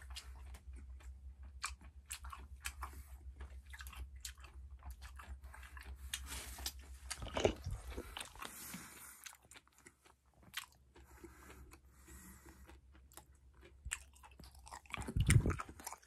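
A person chewing and biting tangerine close to the microphone: wet, irregular mouth clicks and smacks. A loud knock about halfway through and a heavier thump near the end, and a low hum stops about halfway.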